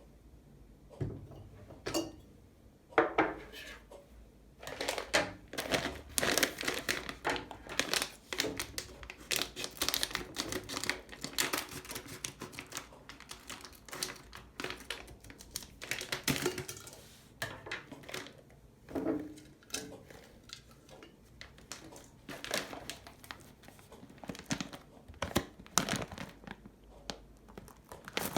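Crinkling and rustling, as of packaging being handled, with irregular light clicks and knocks of kitchen items.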